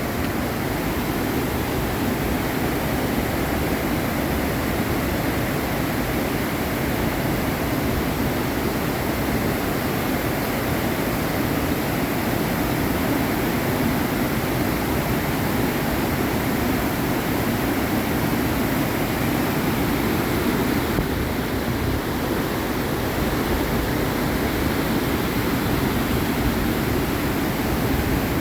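Torc Waterfall: falling water making a steady, even rush that does not let up.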